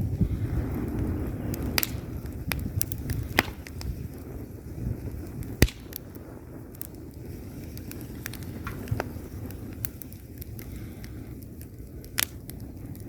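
Wood fire burning in a fireplace: a low rumble of flames with scattered sharp crackles and pops, the loudest pop a little before halfway.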